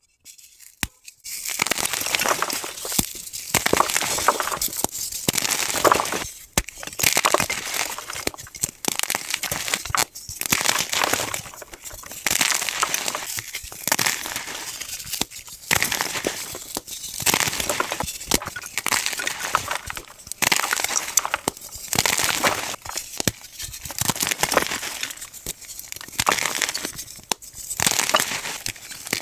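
Soft blocks of gym chalk being squeezed and crushed by hand, a dense crunchy crumbling made of many small cracks that swells with each squeeze and eases between them, roughly one squeeze every second or two.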